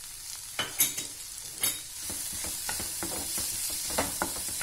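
Chopped capsicum and grated carrot frying in butter in a kadai, sizzling steadily while a wooden spatula stirs and scrapes the vegetables around the pan. A few sharp scrapes come in the first two seconds, then the sizzle settles into a steady hiss with repeated stirring strokes.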